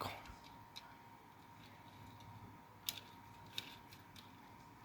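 A few faint, sharp plastic clicks of a small HO-scale caboose being handled and fitted onto the track, which it is not going onto, over a faint steady high tone.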